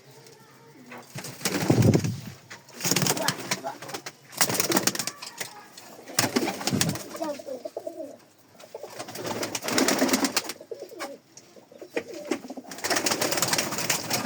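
Teddy pigeons cooing over and over, mixed with bursts of rustling and scuffling.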